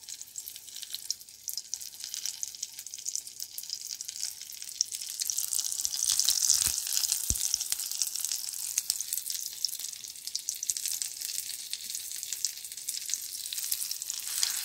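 Semolina-coated liver frying in hot oil in a pan: a steady sizzle full of small crackles that swells louder about six seconds in. Two soft knocks come near the middle.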